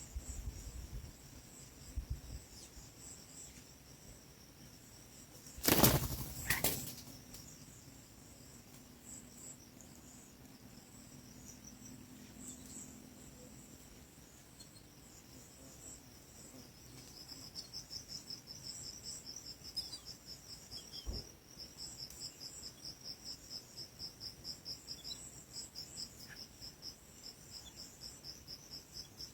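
Two loud, brief rushes of a bird's wings flapping about six seconds in, over a steady high insect trill. From a little past halfway there is a rapid run of high chirps, about four a second.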